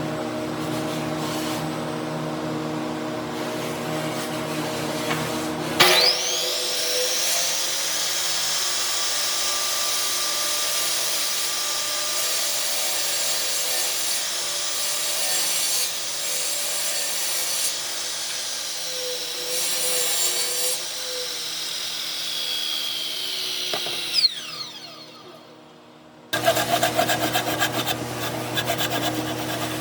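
Power tool working wood: its motor spins up with a rising whine about six seconds in, runs at a steady high pitch while cutting, and winds down near the end, over a steady machine hum. A rougher, noisier machine sound starts just before the end.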